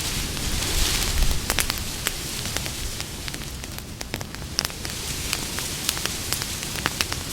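Campfire burning, with frequent sharp crackles and pops over a steady hiss, briefly louder about a second in.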